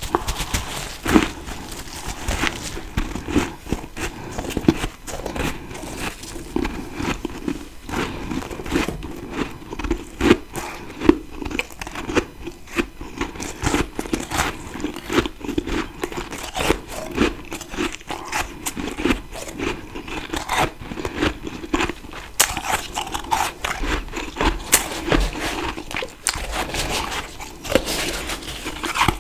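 Close-up chewing of fresh freezer frost grown with a humidifier: a dense, continuous run of small crisp crunches and crackles, with louder bites here and there.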